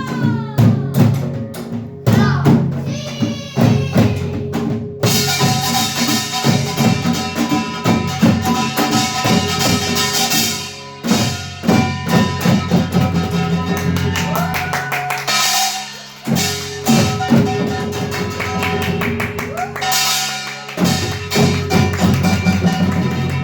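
Children's samulnori ensemble playing: janggu and buk drum strokes in a fast rhythm, with the kkwaenggwari and jing gongs joining about five seconds in and clanging and ringing over the drums.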